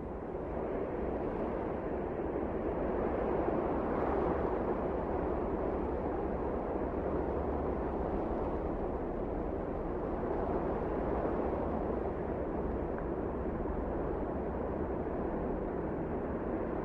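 Wind blowing steadily, a dense low rushing noise that builds over the first few seconds and then holds.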